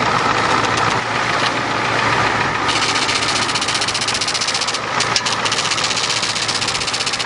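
Old Ford truck engine running steadily, with a fast, even ticking clatter coming in about two and a half seconds in.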